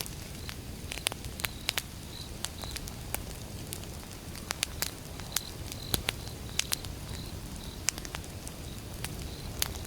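Wood campfire burning, with irregular sharp crackles and pops over a steady low rumble of the flames. A faint high chirp repeats in the background.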